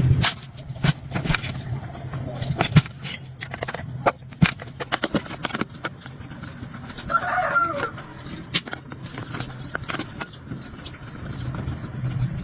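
Scattered sharp clicks and knocks, with a chicken clucking briefly about seven seconds in, over a steady high-pitched whine.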